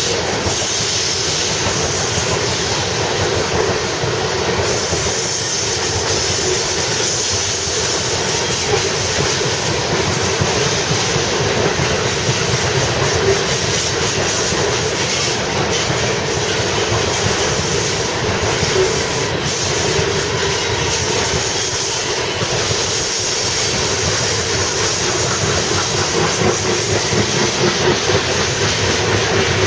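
Loaded coal train's freight cars rolling past close by: a steady, loud rumble of steel wheels on rail with a dense, rapid clatter of wheels over the rail joints.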